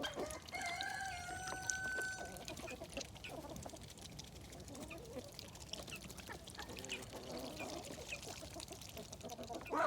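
Poultry and ducks calling quietly, with scattered faint clicks and rustling. A long thin squeak is held for about two seconds near the start.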